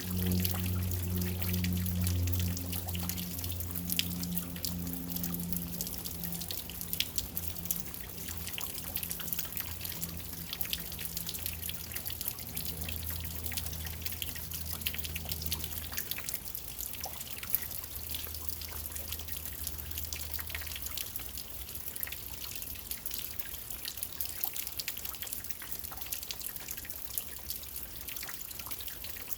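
Steady rainfall with many close drops dripping and pattering. A low steady hum sits under it at first and fades out about halfway through.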